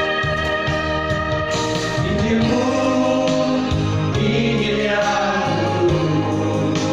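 A vocal group singing a gospel song to guitar accompaniment, the voices coming in about two seconds in over the guitar.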